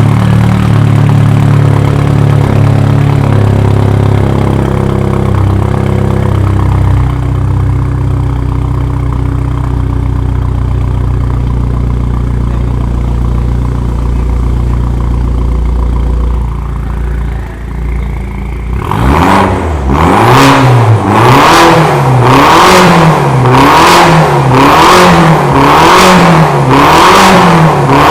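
BMW 316i engine running through a full stainless-steel exhaust with a custom stainless downpipe: a steady idle for about eighteen seconds, then rapid throttle blips, the revs rising and falling about once a second to the end.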